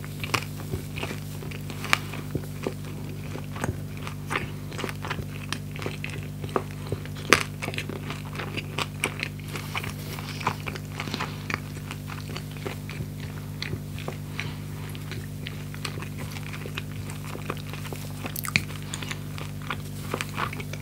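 A person chewing a mouthful of food with closed lips, close to the microphone: many short mouth clicks at irregular intervals.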